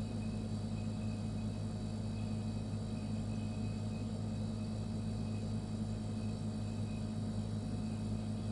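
Refrigerator running with a steady, unbroken low hum.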